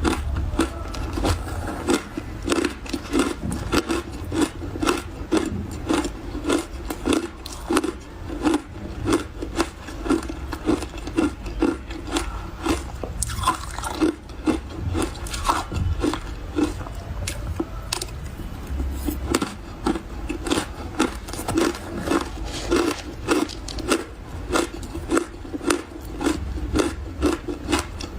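Close-up chewing of refrozen powdery freezer ice: soft crunches repeating two to three times a second.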